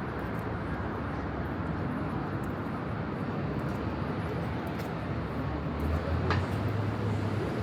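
Steady rumble of city road traffic, swelling a little near the end, with one brief sharp sound about six seconds in.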